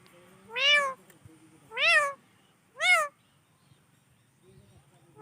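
Pet parrot giving three short meow-like calls about a second apart, each rising and then falling in pitch.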